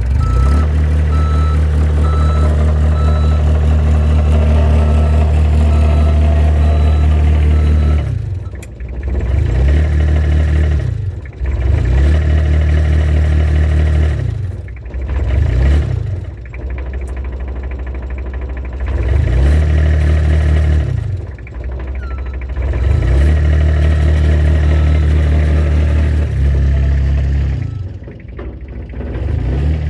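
Dumper engine running under test, its revs dropping and picking up again several times after a steady first eight seconds as the restored machine is tried for drive. A repeated high beep sounds during the first eight seconds or so.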